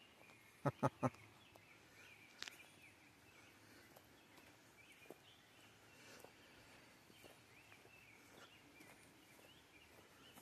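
Faint bird chirps carrying on throughout. Three quick, sharp knocks just under a second in are the loudest sounds, and a lighter click follows at about two and a half seconds.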